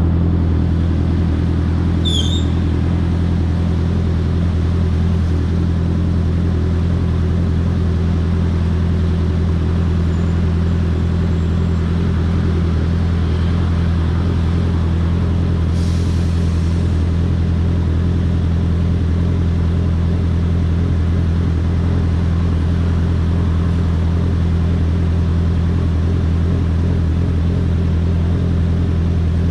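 2022 Honda CBR650R's inline-four engine idling steadily, its pitch holding constant throughout. A brief high chirp sounds about two seconds in.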